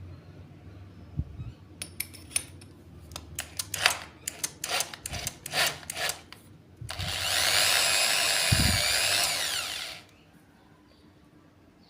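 A series of about a dozen sharp scraping strokes, then a small power tool runs for about three seconds and cuts off suddenly.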